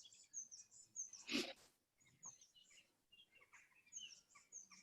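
Near silence with faint, scattered high bird chirps, and one short breathy noise about a second and a half in.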